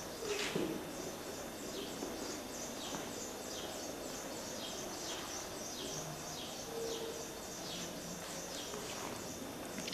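Bird-like chirping: short, high, falling notes repeated about twice a second over a steady hiss.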